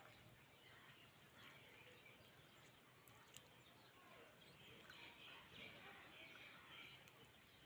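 Faint bird chirping over a quiet outdoor background, with a few light clicks.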